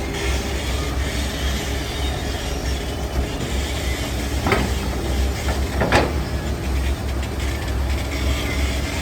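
Heavy diesel construction machinery running with a steady low rumble and clatter, with two sharp metallic knocks about four and a half and six seconds in.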